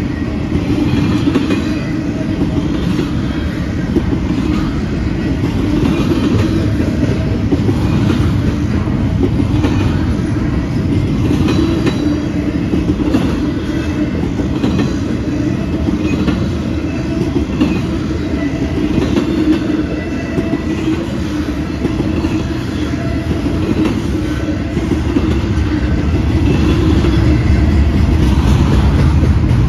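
Intermodal freight train's double-stack well cars and trailer flatcars rolling past at speed: steady noise of steel wheels on rail, with scattered brief faint high squeals. It grows a little louder near the end.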